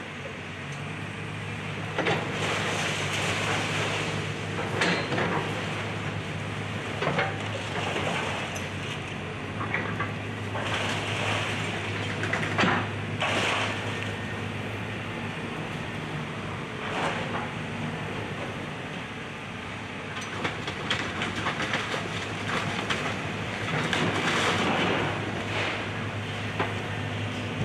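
Excavator's diesel engine running with a steady hum while it breaks up a house: irregular crunches and crashes of splintering wood and falling debris every few seconds.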